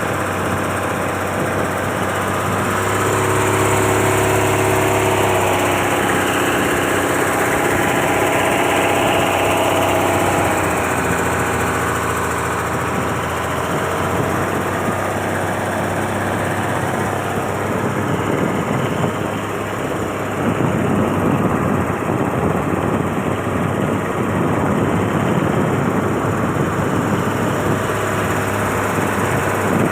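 Engine of a fully loaded motor boat running steadily. Its hum holds an even pitch at first, then turns rougher and a little louder about twenty seconds in.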